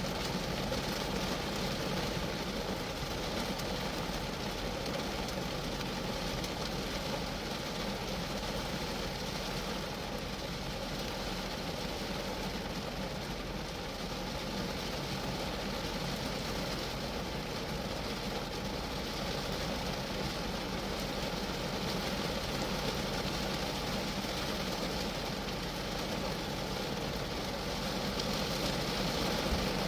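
Steady rain falling on a Geo Metro's roof and body, an even wash of drops without a break.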